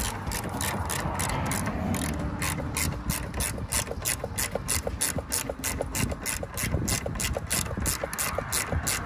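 Socket ratchet clicking steadily, about four or five clicks a second, as it runs down a motor mount bolt.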